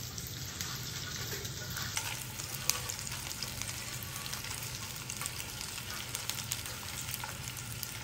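Onion and dried guajillo and ancho chiles frying in melted lard in a pan: a steady sizzle with small scattered pops.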